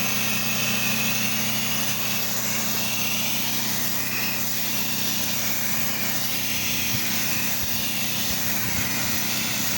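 Pressure washer's engine running steadily while water hisses from the spray wand in a rinse.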